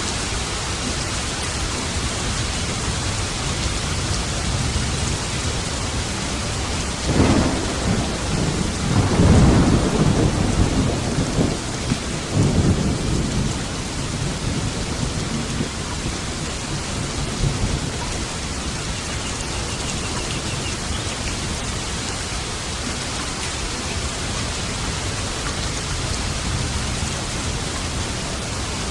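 Steady heavy rain with a roll of thunder rumbling through about seven seconds in, peaking twice before it fades back into the rain.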